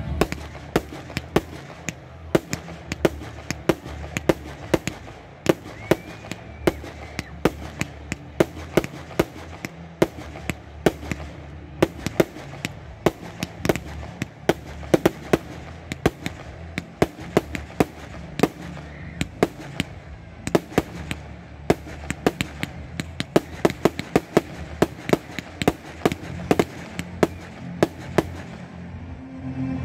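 Fireworks firing in a rapid, steady string of sharp bangs, about three a second, each shot bursting into a small spray of stars. The string stops just before the end.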